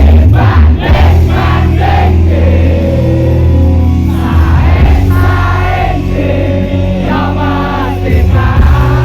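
Live band playing a Javanese campursari song with a heavy bass line, a lead vocal and many voices singing along.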